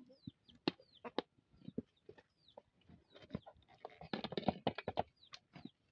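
Chickens clucking, with many short, high falling peeps and a few sharp knocks; the sound grows busier about four seconds in.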